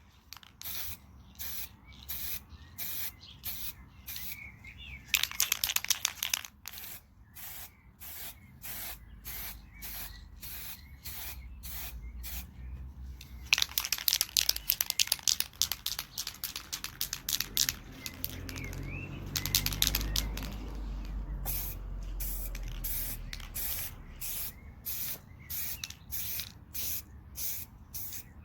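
Aerosol spray-paint can spraying paint in three longer hisses, about 5, 13 and 19 seconds in. Between and around them come quick rhythmic clicks, about two to three a second, from the can being shaken as it is used.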